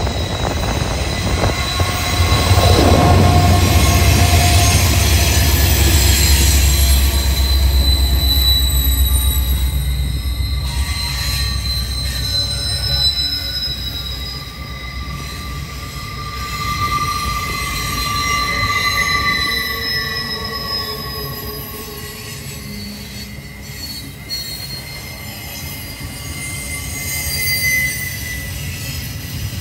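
Norfolk Southern freight train rolling past, its wheel flanges squealing in high, wavering tones against the rail. A heavy low rumble is loudest over roughly the first dozen seconds, then eases off while the squealing continues.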